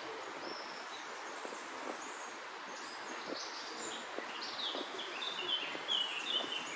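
Wild birds chirping, short high calls that come thicker about halfway through, over a steady background hiss of outdoor noise.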